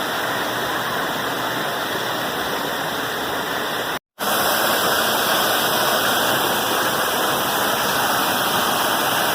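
Steady rushing water of a waterfall close by, a loud, even hiss with no tone in it. It drops out for a moment about four seconds in, then carries on a little louder.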